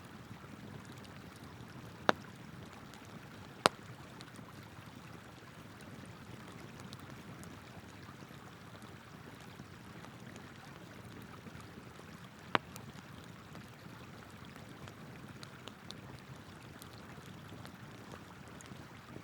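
Campfire of burning wood crackling, with three sharp pops (two close together a couple of seconds in, one near the middle) and faint ticks, over the steady rush of a flowing river.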